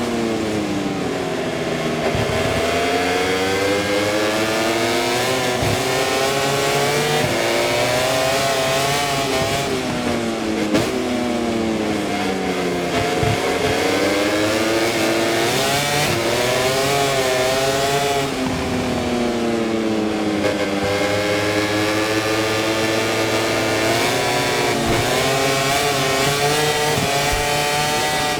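MotoGP race bike's V4 engine heard onboard at racing speed: it revs up in quick steps through the gears and drops low on braking for corners several times, with wind rush over it.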